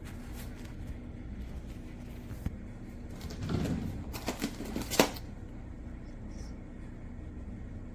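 Handling noises: a short rustle and a quick run of clicks and knocks, the sharpest about five seconds in, over a low steady hum.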